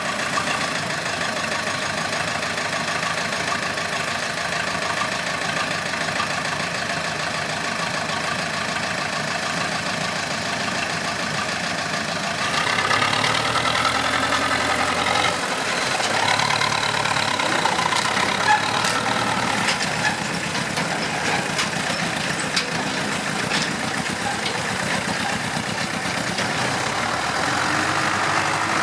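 Farm tractor diesel engine running steadily. About twelve seconds in it gets louder and higher in pitch, and a few sharp clicks sound in the second half.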